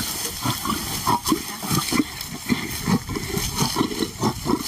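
Lions growling and snarling over meat in short, irregular grunts, a male guarding the food from a lioness.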